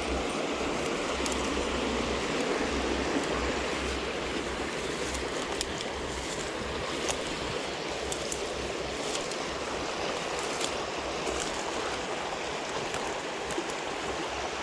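Small river flowing steadily, with a few faint scattered clicks.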